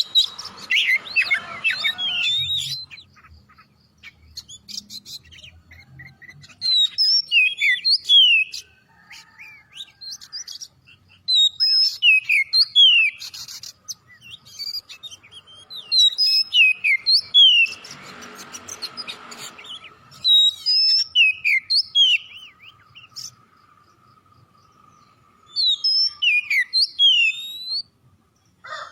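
Oriental magpie-robin (kacer) in full song: about five phrases of quick, clear whistled notes, many sliding steeply down, each phrase lasting a couple of seconds with short pauses between. A brief rushing noise comes about two-thirds of the way through.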